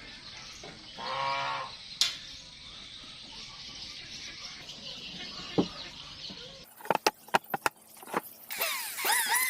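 A chicken calls once, briefly, about a second in, over faint background noise. After a few sharp clicks, a warbling tone starts near the end.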